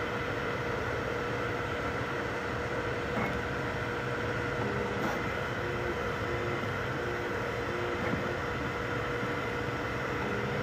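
3D printers running mid-print: a steady cooling-fan hum with the stepper motors' short pitched notes stepping up and down as the print head moves.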